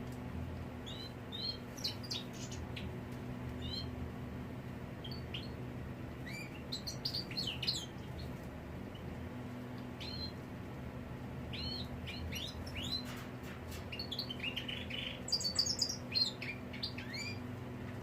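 European goldfinch chirping and calling in quick, twittering bursts of short notes, heaviest about a third of the way in and near the end, over a faint steady low hum.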